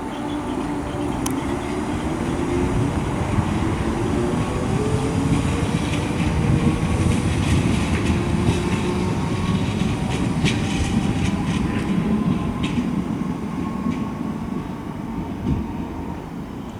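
Merseyrail PEP-family electric multiple unit moving through the station: a low rumble with its traction motors whining at a slowly shifting pitch, and a run of wheel clicks over rail joints in the middle. The sound swells and then fades toward the end.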